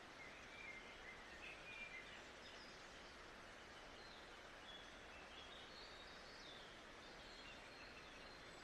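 Faint nature-sound ambience: a steady soft hiss with small birds chirping on and off, the clearest chirps in the first two seconds.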